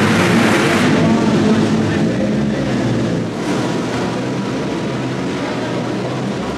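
Ferrari 150° Italia Formula 1 car's 2.4-litre V8 running at a steady idle, easing slightly in loudness partway through.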